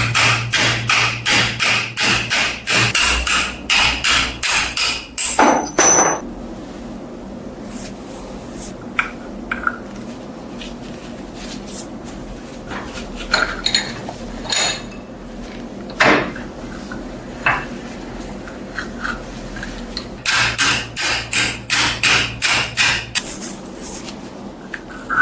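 Hammer blows in quick runs of about three or four strikes a second: one run for the first six seconds and another from about twenty seconds in, with scattered single knocks between.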